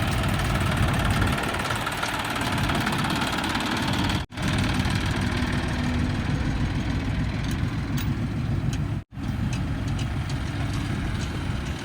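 Diesel engine of heavy machinery running steadily. The sound cuts out for a split second twice.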